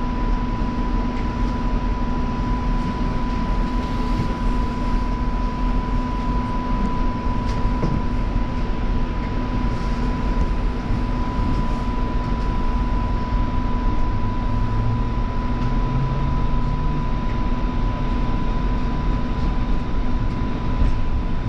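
Bombardier Flexity Freedom light-rail vehicle running between stations, heard from inside the car: steady wheel and running noise with a constant high hum. A low motor tone rises in pitch about two thirds of the way through.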